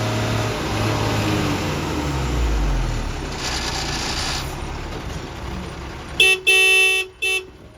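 A tractor engine runs hard under load, towing a stuck truck. Near the end a vehicle horn sounds three short, loud blasts.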